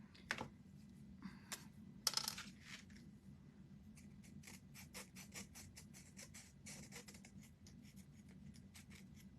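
Faint scattered clicks, taps and short scratches of small wooden craft pieces and tools handled on a work table, over a steady low hum, with a slightly louder scrape about two seconds in.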